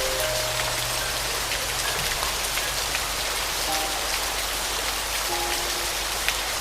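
Steady rain pattering, with a few soft, sparse piano notes held and fading.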